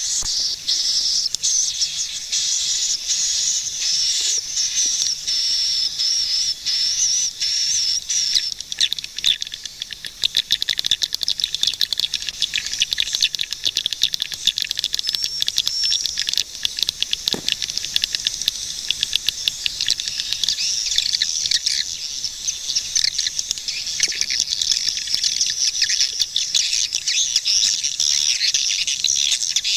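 A flock of swiftlets chirping and twittering in a dense, continuous stream of high-pitched calls. From about a third of the way in, rapid clicking runs through the calls.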